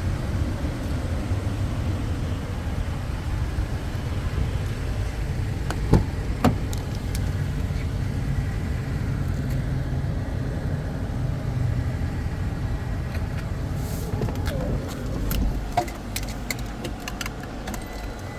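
The 2017 Toyota Tacoma's V6 idling with a steady low rumble, with two sharp clicks about six seconds in and a run of small clicks and taps near the end.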